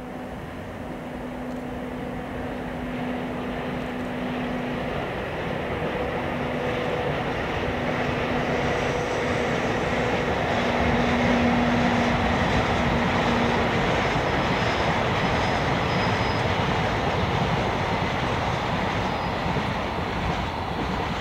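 Freight train of tank wagons hauled by an EF64 electric locomotive running across a railway bridge: a continuous rumble and clatter of wheels that builds to its loudest about halfway through and carries on as the wagons pass. A steady low hum sounds through the first part, and faint high wheel squeals come in the middle.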